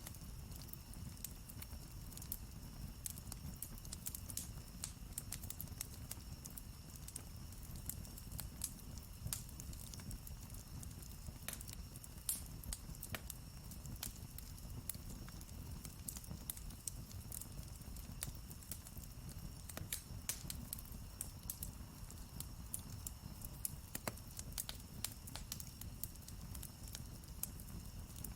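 Campfire crackling, with frequent irregular sharp pops and snaps of burning wood over a low, steady rumble.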